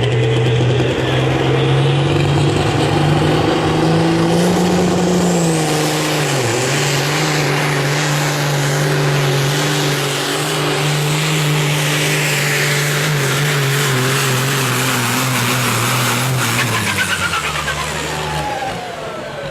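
Modified semi truck's diesel engine held at high revs under full load while pulling the weight sled, with a brief dip about six seconds in. About seventeen seconds in the engine backs off and the revs fall away.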